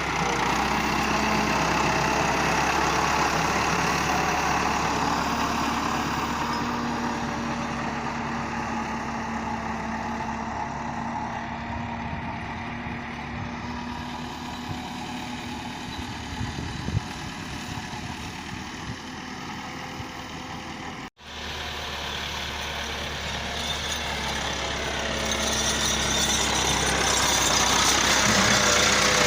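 Massey Ferguson 385 tractor's diesel engine running steadily. It fades through the middle and grows louder again toward the end, breaking off for an instant about two-thirds of the way through.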